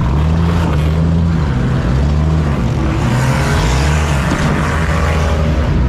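Chrysler PT Cruiser's four-cylinder engine running under load, heard from inside the stripped-out cabin. The engine note holds steady, then wavers and shifts pitch a couple of times as the throttle changes.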